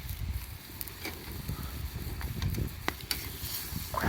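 Wood fire crackling, with a few scattered sharp pops over a low, steady rumble.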